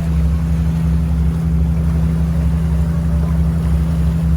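A tour boat's engine running steadily, heard on board as a loud, even, low hum.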